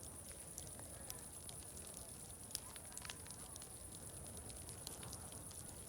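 Faint crackling fire, with sharp pops and snaps at irregular intervals, over a low murmur of distant crowd chatter and a steady high-pitched hiss.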